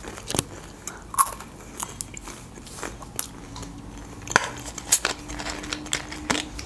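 Close-up chewing of crispy French fries, with a handful of sharp, scattered crunches.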